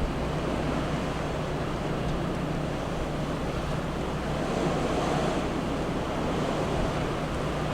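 Blizzard wind and ocean surf making a steady rushing noise, swelling slightly around the middle, with a steady low hum underneath.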